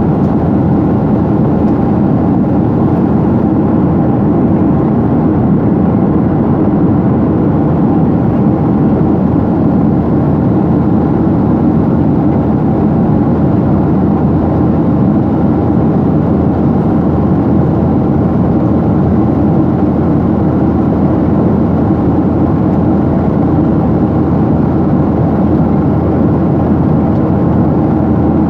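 Steady cabin noise of a jet airliner in flight, heard from a passenger seat: engine and airflow noise at a constant level, with no change in pitch.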